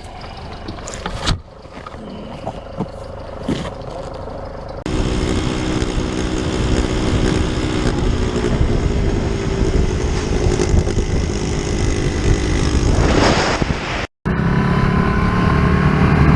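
Motorcycle riding sounds from spliced clips. At first there is a quieter stretch of road noise with a few knocks. About five seconds in it cuts to a motorcycle engine running steadily at speed, with wind noise. The sound cuts out briefly near the end, then an engine runs loudly again.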